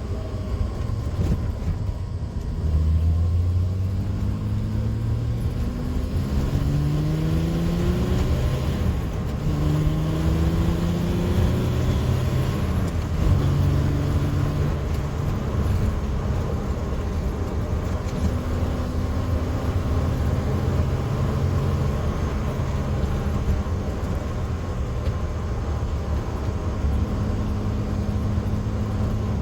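1979 TVR Taimar's 3.0 Ford Essex V6 heard from inside the car, pulling through the gears: its note climbs in pitch several times in the first half, dropping back at each gear change, then settles to a steady cruise over a low road rumble.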